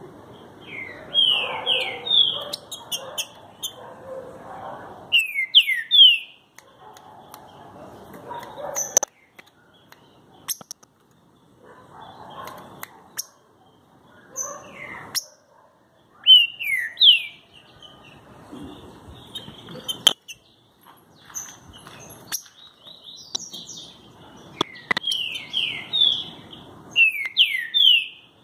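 Green-winged saltator (trinca-ferro) singing: several bursts of loud, quick, sweeping whistled notes, the longest run near the end, with sharp clicks in between.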